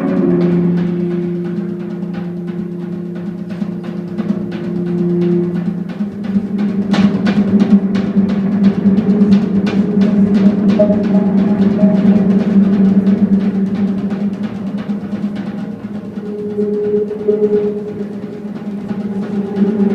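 Live instrumental jazz-rock played by a band of keyboards, electric bass and drum kit. Held low organ and bass notes come first, then the drums come in with dense, busy strokes about six seconds in and the music grows louder.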